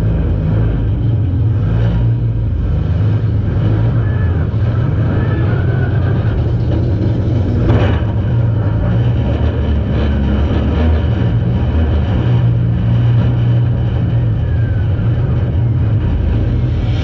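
Demolition derby car's engine running loudly, heard from inside the stripped cabin, with one sharp bang about eight seconds in.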